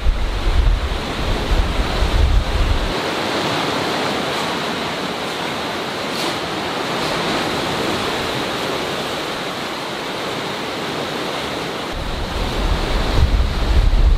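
Ocean surf rushing steadily against the shore, with gusty wind buffeting the microphone in low rumbles for the first few seconds and again near the end.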